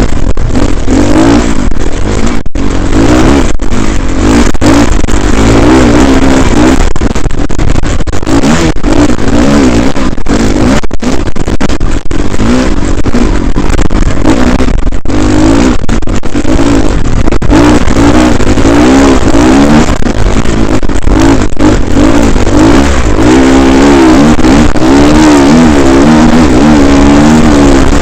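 Dirt bike engine being ridden, its pitch rising and falling again and again as the throttle opens and closes, heard loud from a helmet-mounted camera with a heavy rushing noise over it.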